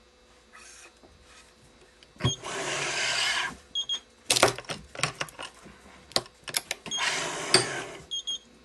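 Badminton main strings being tensioned on a Yonex ES5 Pro stringing machine. Twice there is a rasping pull of about a second, each followed by a short double beep, with sharp clicks of the clamps and tensioner in between.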